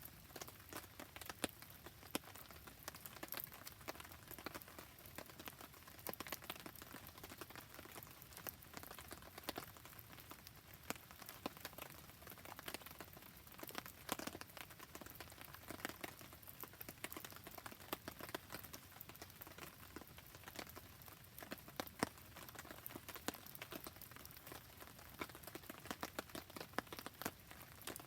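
Steady rain falling, with a wood campfire crackling: a soft, even hiss dotted with many sharp, irregular ticks and pops.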